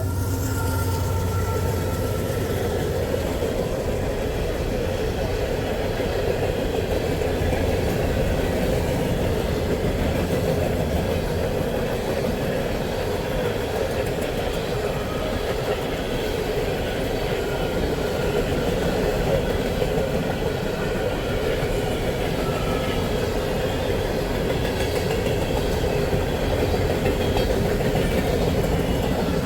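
A train rolling past at close range: a steady rumble of wheels and cars on the rails, with a light clickety-clack.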